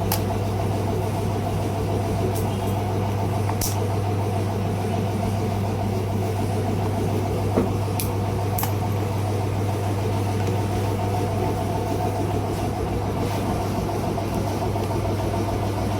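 A steady machine hum with a few sharp clicks.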